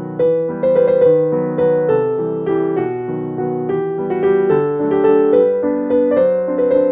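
Background music: a piano melody with distinct notes, each struck and fading.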